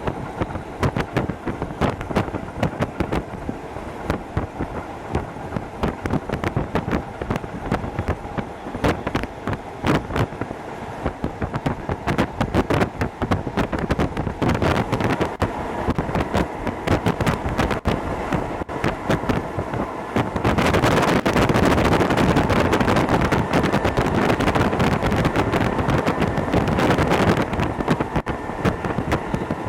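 Hokuso Railway 7260-series electric train running at speed, with rapid clicks and knocks from the wheels on the track. About two-thirds of the way in, a louder rushing noise comes in for about seven seconds, then drops back.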